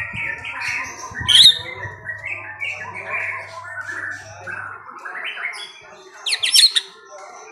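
Songbirds chirping in rapid runs of short repeated notes, with a sharp louder call about a second in and a quick burst of high sweeping notes near the end.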